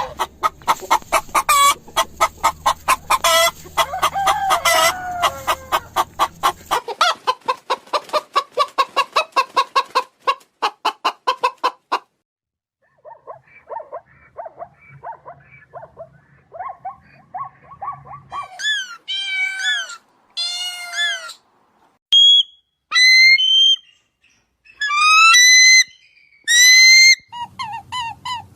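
Domestic chickens calling: a long run of rapid, evenly spaced clucks, a short pause, softer clucking, then a series of louder, higher calls that rise and fall in pitch.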